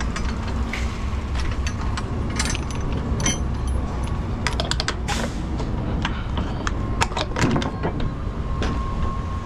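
Semi truck's diesel engine idling with a steady low rumble, while many scattered clicks, knocks and rattles of things being handled sound over it.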